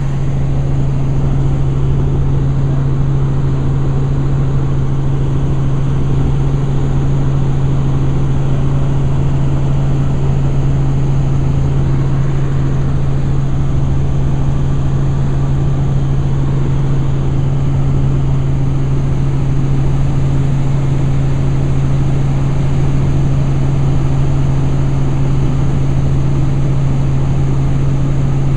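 Helicopter in flight: a steady, unbroken engine and rotor drone with a strong low hum.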